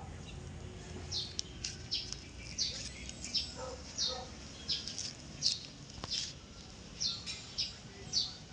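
A small bird chirping over and over, short high chirps at an irregular pace of about two a second, over a faint steady low rumble.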